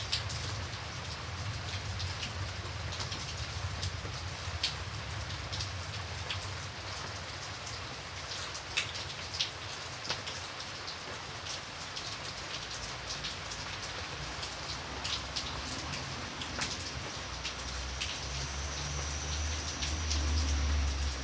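Steady rain falling on a hard surface, with many sharp drop ticks over an even hiss. A low rumble swells near the end.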